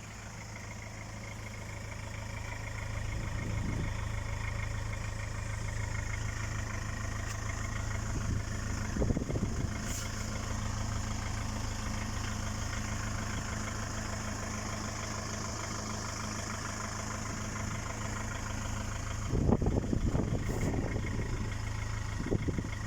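Mitsubishi L200 pickup engine idling through a 4-inch side-exit exhaust, a steady low drone that swells over the first few seconds. It grows briefly louder about nine seconds in and again near twenty seconds.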